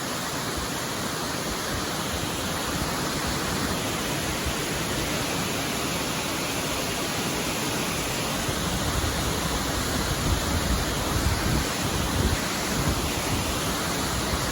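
Steady rushing roar of a large waterfall. About two-thirds of the way through, a few low rumbles and bumps come over the top of it.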